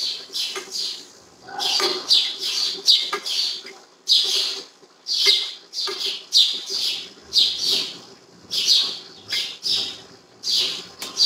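A bird calling over and over in short, loud, downward-sliding chirps, about two a second and often in pairs.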